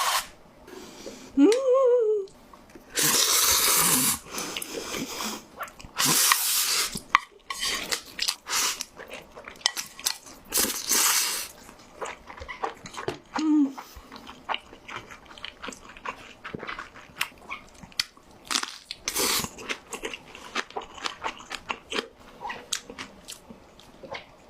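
Jjapagetti black-bean-sauce noodles being slurped in several loud pulls of about a second each, with wet chewing and short utensil clicks in between. A brief rising-and-falling tone comes near the start.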